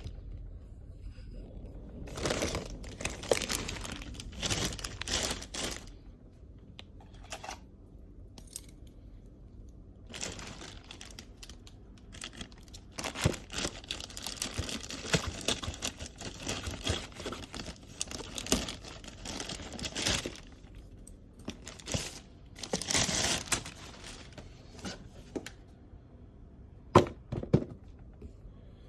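Packaging being opened by hand: crinkling and tearing in irregular bursts, with a couple of sharp clicks near the end.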